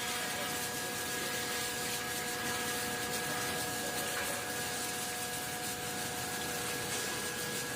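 A 12-ton-per-day flake ice machine running: a steady mechanical hiss and hum with several steady whining tones, without change.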